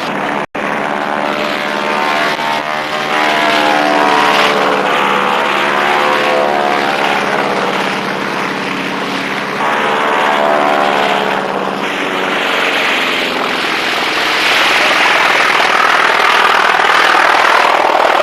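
Propeller aircraft engine running as the plane flies past, its pitch sliding and changing as it passes. The audio cuts out briefly about half a second in.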